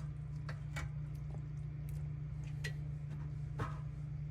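Scattered light clicks and taps of small kitchen items being handled, about six in four seconds, over a steady low hum.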